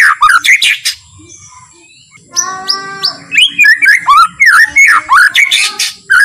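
White-rumped shama (murai batu) singing in quick, varied whistled phrases. The song breaks off for about a second, resumes with a short raspy note, then runs on as a dense stream of rising and falling whistles.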